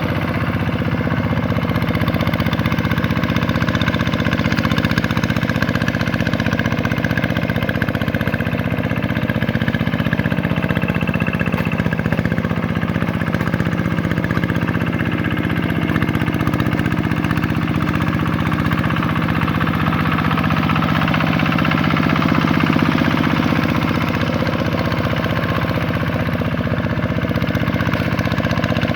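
Vikyno RV125-2 walking tractor's single-cylinder diesel engine running steadily while the tractor works a paddy field.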